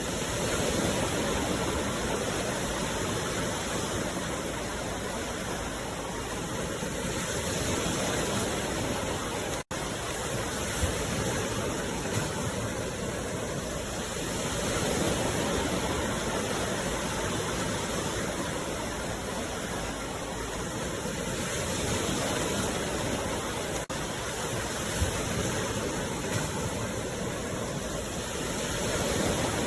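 Sea waves washing in: a steady surf hiss that swells and eases about every seven seconds. The sound cuts out for an instant about ten seconds in.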